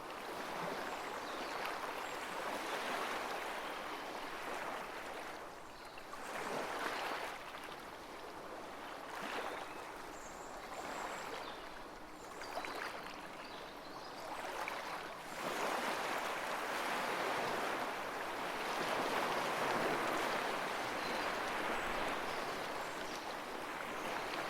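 Sea surf breaking and washing up a beach, a steady hiss that swells and eases every few seconds, loudest for a long stretch in the second half.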